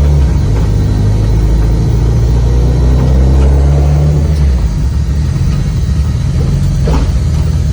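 Cabin noise of a built 540 whp Subaru Impreza on the move, heard inside the gutted, caged car: loud engine and drivetrain drone whose pitch climbs slightly under acceleration for about four and a half seconds, then drops and holds steady.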